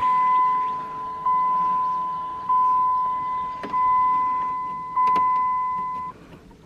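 Truck's dashboard warning chime: a steady single-pitch ding that sounds about every 1.2 seconds and fades between strikes, stopping shortly before the end.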